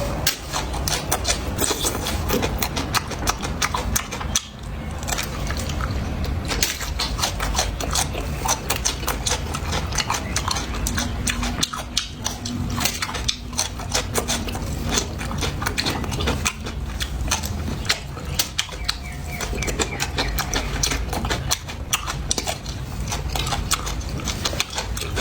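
Close-miked chewing and mouth noises while eating, with many quick irregular clicks and smacks.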